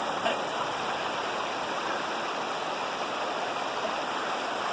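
Steady rushing of a flowing creek.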